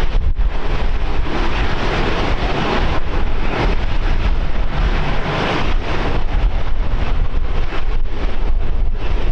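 Strong wind buffeting the microphone: a loud, uneven low rumble with gusts swelling and easing.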